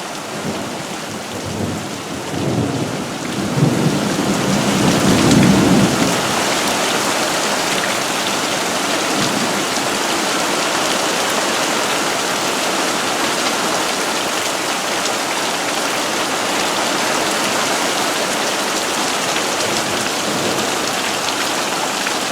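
Heavy monsoon rain pouring down steadily. A low roll of thunder rumbles a few seconds in and fades by about six seconds.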